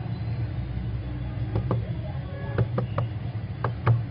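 A run of light, sharp clicks and taps from hand-working a phone's small parts during a speaker repair, over a steady low hum.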